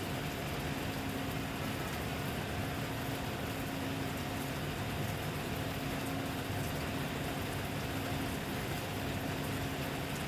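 Steady rain falling, a constant hiss with faint drop ticks, over a steady low hum.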